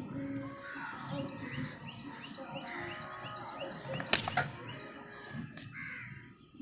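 Small birds chirping in quick, repeated falling calls, with one short, loud burst of rustling noise about four seconds in.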